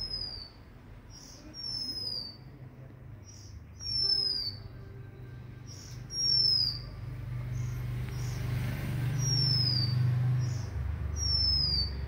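A songbird calling over and over: a short note, then a clear high whistle that slides down in pitch, repeated about every one to two seconds. A low, steady rumble underneath grows louder past the middle.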